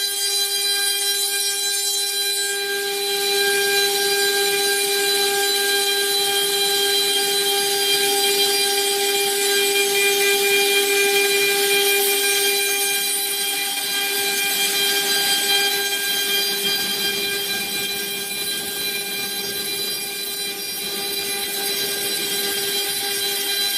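Spindle of a high-speed five-axis CNC machining centre running with a steady high-pitched whine and overtones, joined after about two seconds by a rising hiss.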